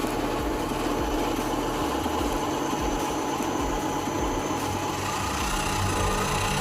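Remote-control model truck running with a steady engine-like drone, and a faint rising whine near the end.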